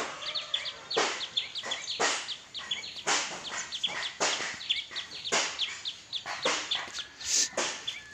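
Small birds chirping rapidly and constantly in short falling notes. Over them comes a louder scuffing stroke about once a second, in time with footsteps.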